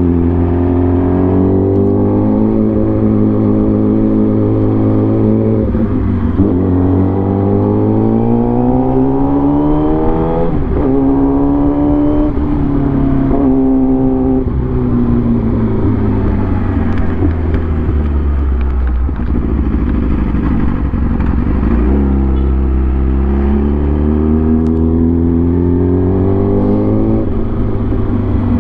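Motorcycle engine pulling through the gears: its pitch climbs in several runs, dropping back at each shift, then falls away for a long stretch as it slows, and climbs again near the end.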